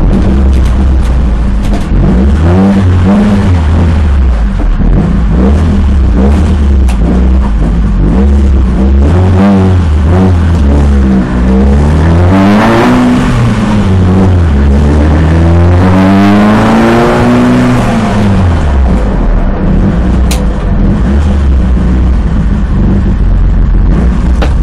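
Citroën Saxo engine heard loud from inside the cabin, its pitch climbing and dropping back several times as the driver works through the gears, with two long climbs around the middle, then holding a steady note for the last few seconds.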